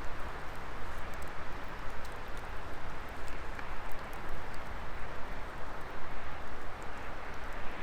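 Wood fire burning: a steady hiss of the flames with scattered small crackles and pops.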